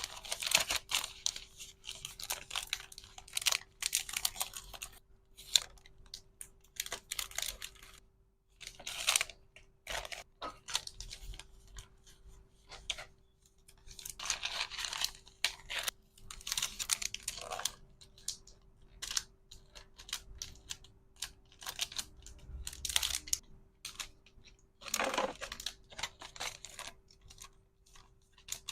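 Hands packing an order: irregular bursts of packaging rustling and crinkling, with small clicks and taps and short pauses between, over a faint steady hum.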